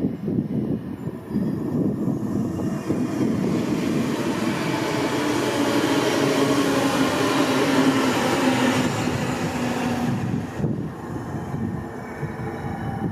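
DB Class 440 (Alstom Coradia Continental) electric multiple unit pulling in along the platform: wheels running on the rails with a steady electric motor whine, growing louder as it passes. The sound drops off suddenly about ten seconds in to quieter station noise.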